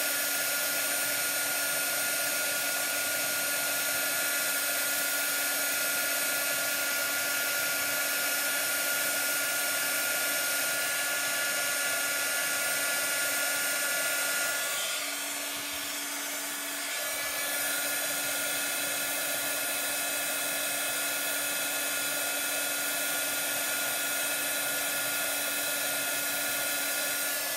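Embossing heat tool blowing hot air, its fan motor running with a steady whine, dipping slightly a little past halfway and switched off at the very end. It is melting white embossing powder in heat embossing.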